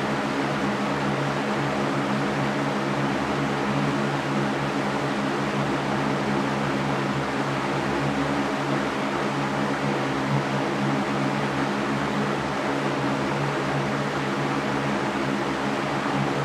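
Electric fan running steadily: an even airy rush with a low motor hum underneath.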